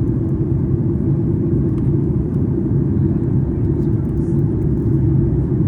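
Steady low cabin rumble of a Boeing 737 MAX 8, the drone of its CFM LEAP-1B engines heard from inside the passenger cabin.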